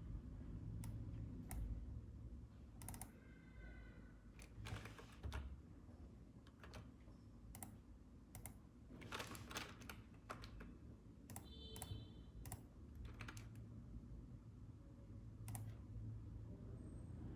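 Faint, irregular computer keyboard keystrokes and clicks, some in quick runs, over a steady low hum, with two brief high tones among them.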